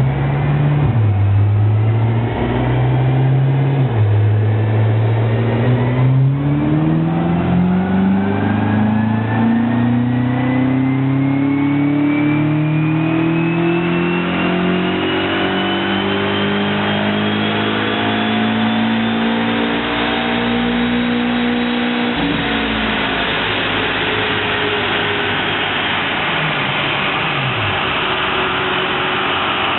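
F10 BMW M5's twin-turbo V8, breathing through an RPi GTM aftermarket exhaust, making a full-throttle chassis-dyno pull. After two brief dips in the first few seconds, the revs climb steadily for about 18 seconds, then drop off about 22 seconds in and the engine winds down.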